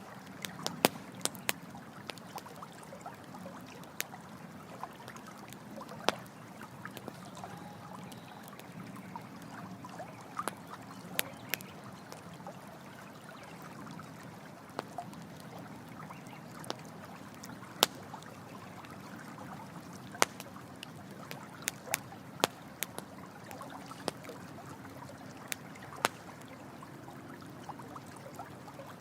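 Campfire crackling, with sharp irregular pops of varying loudness, over a steady trickle of running water.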